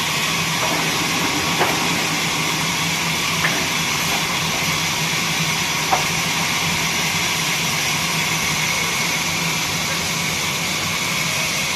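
Horizontal wood band saw machine running: a steady motor hum under a constant hiss, with three short ticks spread through the first half.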